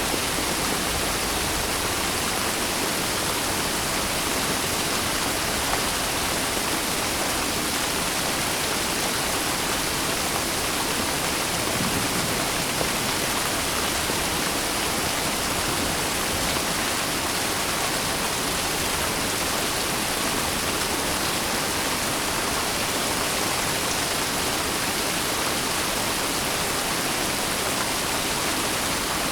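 Steady rain falling, a dense even hiss without pauses.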